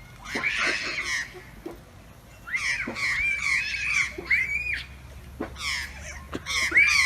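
Large domestic fowl calling: short, arched, honking calls repeated in quick runs, three runs in all, the longest in the middle.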